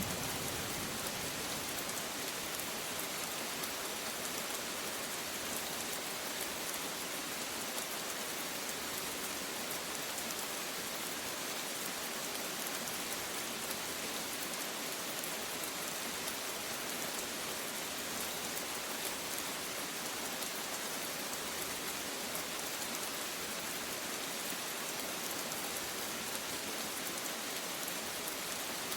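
Steady rain falling, an even hiss of many fine drops with no rise or fall.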